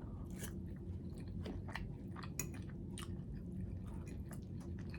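A person chewing a mouthful of butter chicken and rice, faint, with many small irregular mouth clicks.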